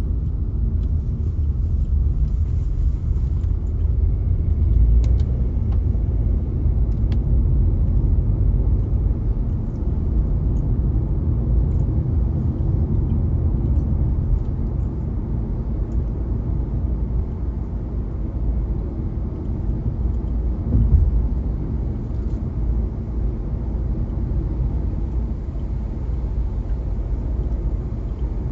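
A car driving, with a steady low rumble of the engine and tyres on the road and a brief bump about twenty-one seconds in.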